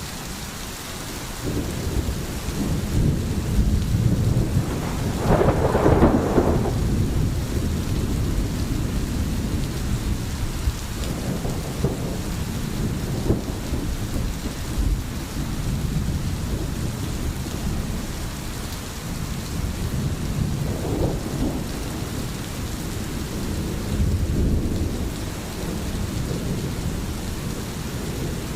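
Steady rain with rolling thunder rumbling underneath. The loudest peal swells about five to six seconds in, and fainter rumbles come back several times later.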